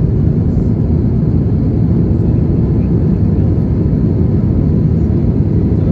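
Steady, loud low rumble of an Airbus A320-200's engines and rushing air heard inside the passenger cabin, with no change in pitch or level.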